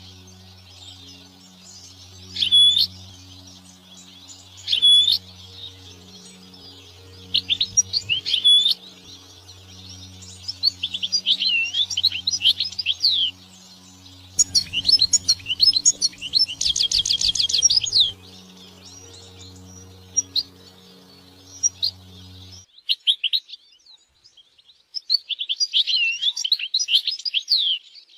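European goldfinch singing. It gives single call notes at first, then liquid twittering phrases and a fast rattling trill in the middle. A low, evenly pulsing drone runs underneath and cuts off suddenly about three-quarters of the way through.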